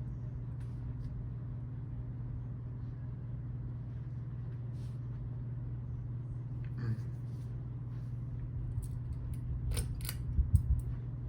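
42-inch Kmart Alaska ceiling fan running: a steady motor hum, with a few light clicks in the last few seconds.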